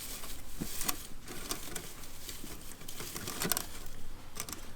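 Dry pine needles rustling and crackling as they are handled and packed into a bee smoker's can, with a few sharp clicks scattered through.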